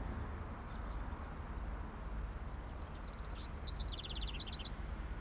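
A bird chirping a quick run of high notes that step down in pitch, from about two and a half seconds in, over a steady low background rumble.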